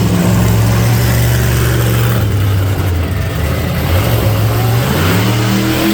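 Monster truck engine running loud and steady, then revving up with a rising pitch over the last second or so.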